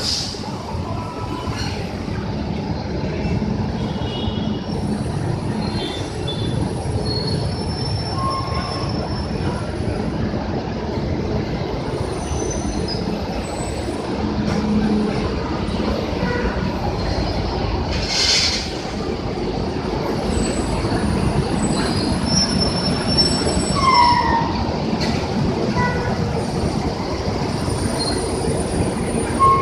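Transjakarta city buses running at a busway stop, their engines a steady low drone, with repeated high-pitched brake squeals and a short hiss of air about eighteen seconds in.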